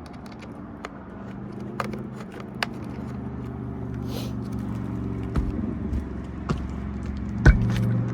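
A steady low mechanical hum that slowly grows louder, with scattered sharp clicks and one louder knock near the end.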